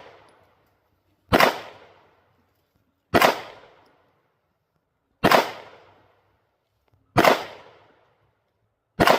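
Canik TTI Combat 9mm pistol fired five times in slow, steady fire, a shot about every two seconds, each shot followed by a short fading echo.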